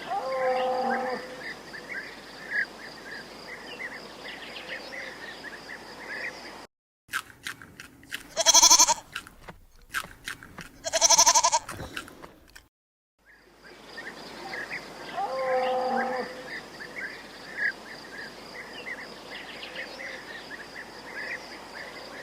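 A sheep or goat bleating twice, loud and wavering, about two and a half seconds apart. Before and after the bleats, birds sing steadily against a faint outdoor background, with a short call a little under a second in.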